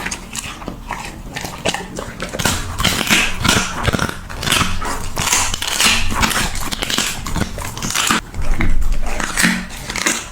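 Husky chewing crunchy dog treats: a dense, irregular run of crunches and clicks, loudest near the end.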